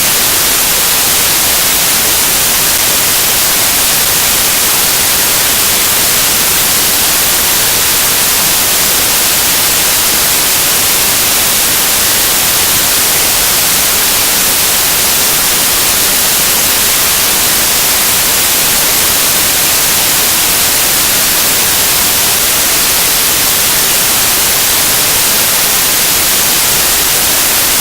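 Loud, steady static hiss like white noise, strongest in the treble and unchanging throughout.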